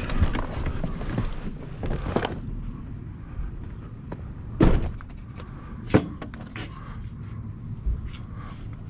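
A handful of sharp knocks and thuds, the two loudest a little past halfway through, over a steady low rumble.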